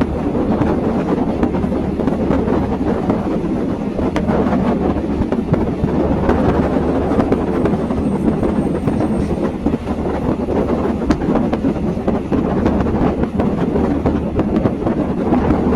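Passenger train in motion: a steady rumble of wheels on the rails, with a low hum and a few sharp clicks from the track.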